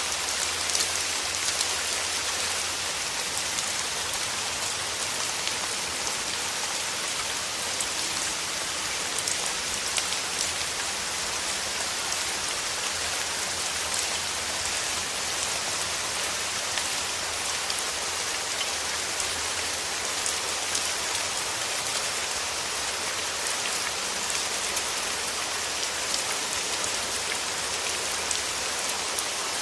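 Steady rain falling, a dense even hiss of many small drops pattering on a surface, with no let-up.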